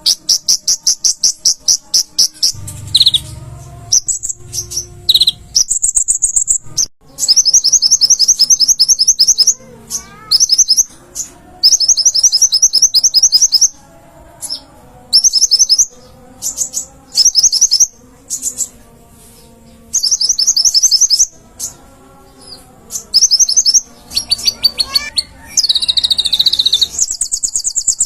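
Kolibri ninja (konin), a small sunbird, singing at full form: loud, very high-pitched phrases of rapid repeated notes, coming in bursts of about half a second to two seconds with short pauses between.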